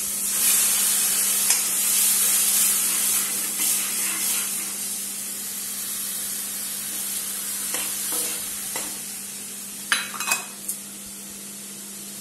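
Tomatoes, garlic and curry leaves sizzling in hot ghee in a steel pan as a ladle stirs them; the sizzle eases off midway. A few sharp metal clinks about ten seconds in.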